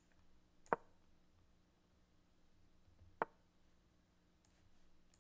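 Two short knocks about two and a half seconds apart, the move sounds of an online chess board as pieces are played, over a faint steady hum.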